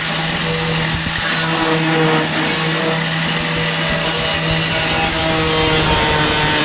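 4.5-inch angle grinder running steadily under load, grinding sheet metal on a pickup's wheel arch.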